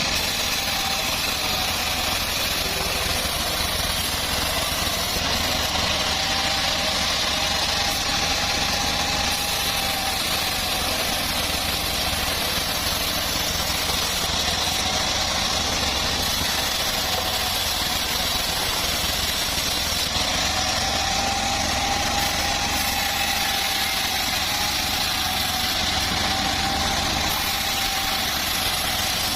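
Engine of a homemade sawmill running steadily, with a faint wavering whine that comes and goes.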